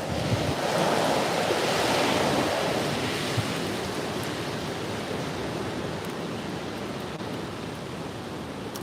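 Strong wind gusting: a rushing noise that swells over the first couple of seconds and then slowly eases, with a couple of brief low thumps of wind on the microphone.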